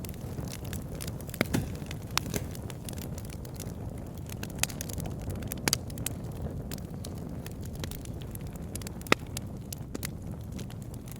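Wood fire burning in a fireplace: a steady low rumble of the flames with irregular sharp crackles and a few louder pops.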